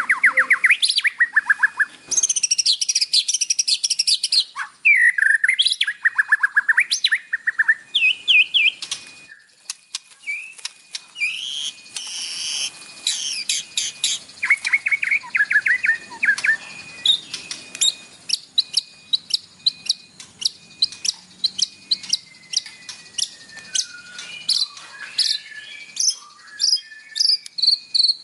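White-rumped shama singing a fast, varied song: whistled phrases, rapid trills and sharp ticks, run together with only brief gaps. The song is packed with isian, the calls of other birds that a shama mimics.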